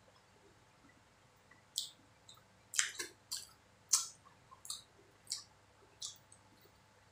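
Close-up wet mouth smacks from chewing sticky chocolate martabak manis: a run of about ten sharp, separate smacks, starting about two seconds in and stopping about six seconds in.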